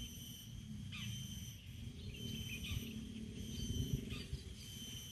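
Outdoor wetland ambience: a bird calls repeatedly, a short falling note about every one and a half seconds, over a steady high-pitched insect drone and a low rumble.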